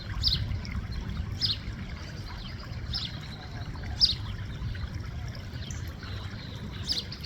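A bird giving short, high, downward-sweeping chirps every second or so, over a steady low rumble.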